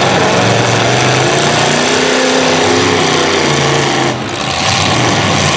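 Several demolition derby cars' engines revving hard at once, a loud, dense exhaust racket with pitches climbing and falling as the drivers gun them. The level dips briefly about four seconds in.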